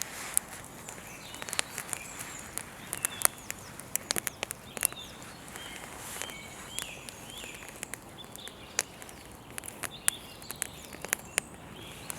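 Wood campfire crackling, with irregular sharp pops and snaps. Birds chirp faintly in the background, mostly in the first half.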